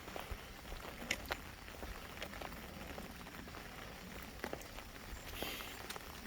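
Light rain falling, with irregular sharp drops ticking close by, and a short rustle about five seconds in.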